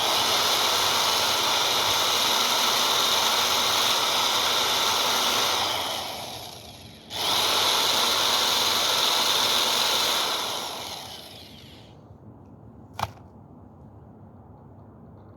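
A corded Sears Craftsman 3/8-inch single-speed electric drill runs in two long bursts, about six seconds and then four, each winding down as it coasts to a stop. It is spinning the Briggs mower engine over, and the engine does not start. A single sharp click follows near the end.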